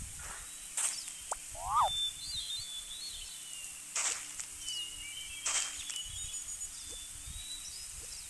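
Outdoor ambience with small birds chirping and warbling, broken by three sharp clicks or knocks and faint low rumbles.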